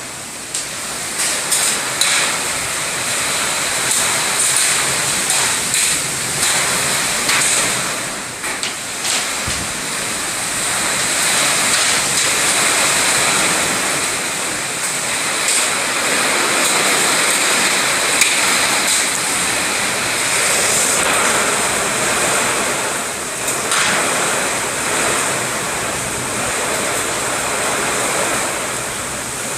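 Heavy rain pouring down in a storm: a loud, dense, steady hiss with many sharp ticks of striking drops or hailstones scattered through it.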